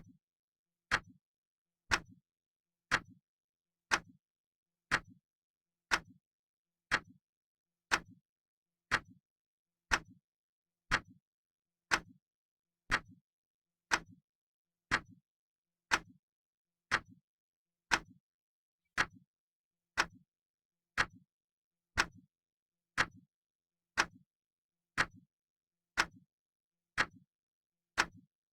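Clock ticking steadily, one tick a second, each tick a sharp click followed closely by a softer, lower knock.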